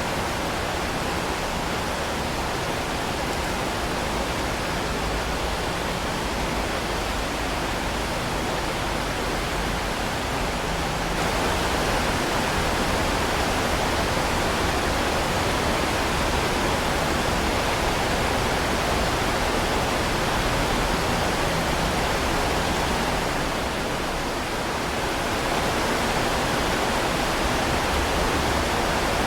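Heavy rain falling in a dense, steady hiss with no separate drops standing out. It gets slightly louder about a third of the way in and dips briefly near the end.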